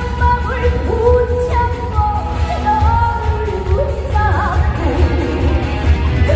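A female trot singer singing live with a band, her melody bending and sliding over a steady beat.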